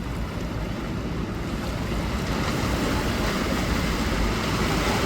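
Sea waves washing in, with wind buffeting the microphone; the rush grows slowly louder.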